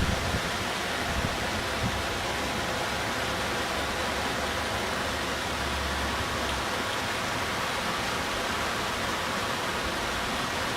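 Steady rushing noise of heavy water during a typhoon, a rain-and-floodwater roar, with a few brief low bumps in the first two seconds.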